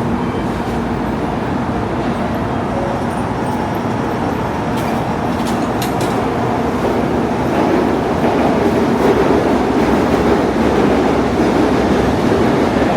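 Shinkansen train moving along the station platform, a steady rail rumble that grows louder from about eight seconds in.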